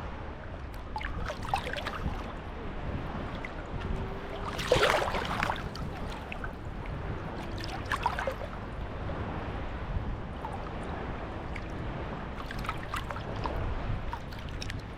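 Small sea waves washing and splashing at the shoreline, with a splash about five seconds in standing out as the loudest and smaller ones near the start, around eight seconds and near the end, over a steady low rumble of wind on the microphone.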